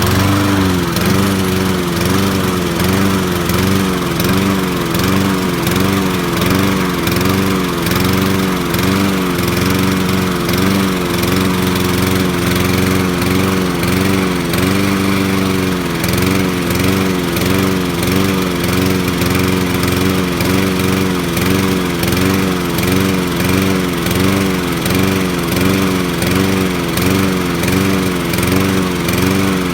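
Sears Craftsman lawn mower's Honda engine running and misfiring: its note keeps dipping and recovering in a steady rhythm, somewhat more than once a second.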